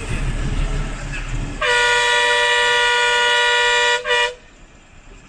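Bus horn: one long blast of two notes sounding together, then a short second toot, over the low running noise of the moving bus.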